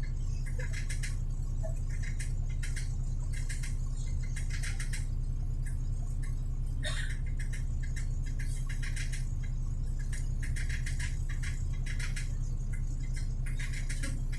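Steady low drone of a city bus driving, heard from inside the passenger cabin, with repeated short bursts of high rattling about once a second.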